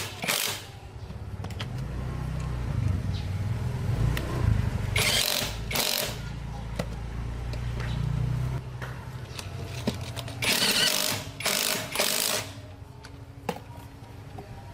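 A motor running with a low, steady hum for several seconds, cutting out past the middle, with a few short bursts of hissing noise.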